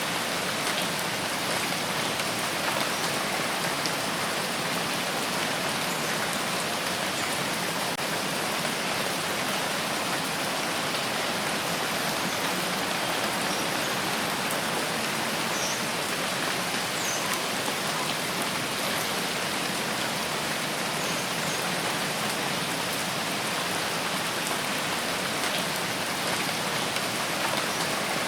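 Steady rain falling, an even hiss of drops on surfaces with a few faint individual drop ticks, unchanging throughout.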